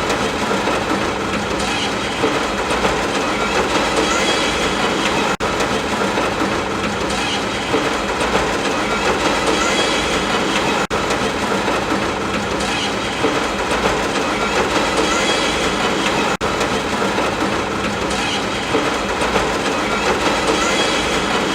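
Steady, dense ambient noise recording, a short loop that repeats about every five and a half seconds, with a brief dropout at each join.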